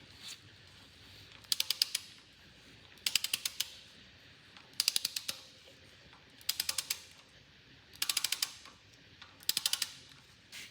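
Hand ratchet wrench turning down LS3 rocker arm bolts: six short runs of rapid pawl clicks, about one every second and a half, each from a return swing of the handle.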